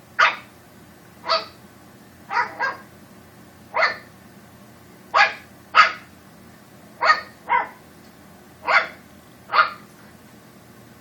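Pug puppy barking at a cat to get it to play: about eleven short barks at uneven intervals, some coming in quick pairs. The barking sounds really fierce.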